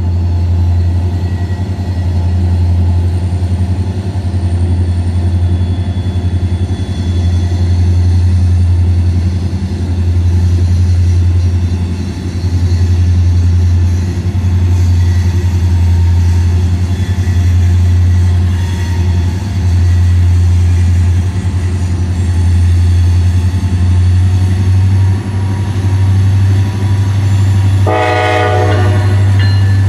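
Heavy freight train's diesel locomotives approaching with a loud steady low rumble, and a short horn blast near the end as the lead locomotive draws level.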